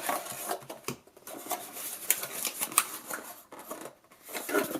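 Cardboard box and paper contents being handled and opened: irregular rustles, scrapes and small taps, with short pauses between them.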